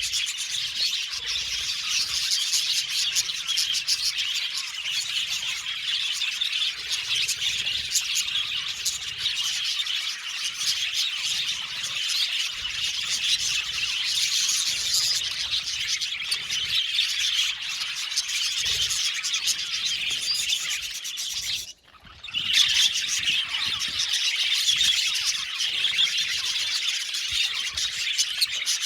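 A colony of budgerigars chirping and chattering continuously, many birds at once, the sound breaking off for a split second about three-quarters of the way through.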